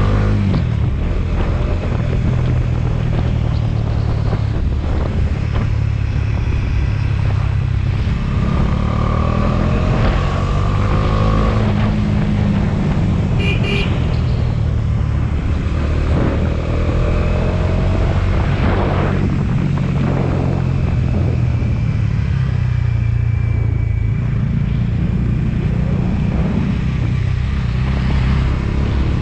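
Motorcycle engine running while riding, its pitch rising and falling with throttle and speed changes. A brief horn toot sounds about halfway through.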